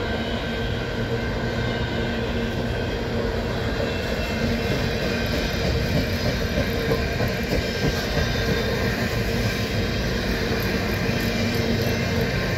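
Coal train's open-top hopper cars rolling past at steady speed: a continuous rumble and rattle of steel wheels on the rails.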